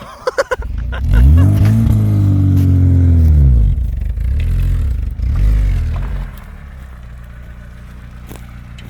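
Lada VAZ-2106 (Zhiguli) carburetted four-cylinder engine revved hard, its pitch climbing and falling, then revved again more briefly, before dropping back to a steady low running sound about six seconds in.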